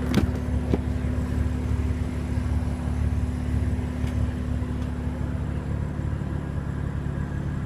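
A car engine idling: a steady low hum with a sharp click right at the start and a fainter one under a second in.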